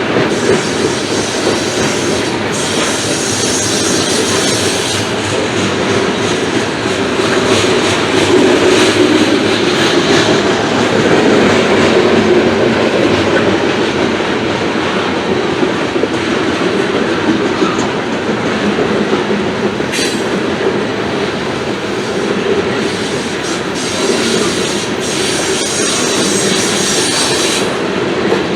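Loaded coal train's freight cars rolling slowly past, a steady clatter of steel wheels on the rails. Higher-pitched wheel noise comes up twice, near the start and near the end.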